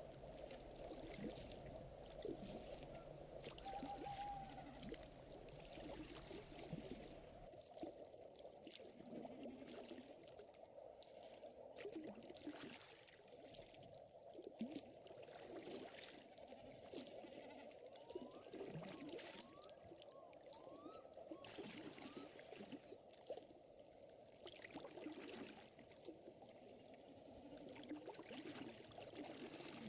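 Quiet ambience of a fire crackling with scattered sharp pops, over a steady trickling and lapping of lake water.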